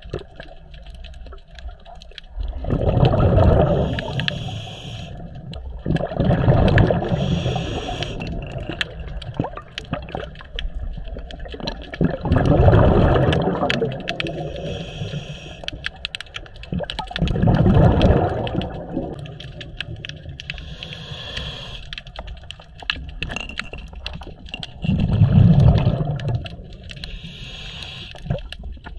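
Scuba diver breathing through a regulator underwater: a short hiss on each inhale, then a loud bubbling rush as the exhaled air leaves the regulator, about five breaths.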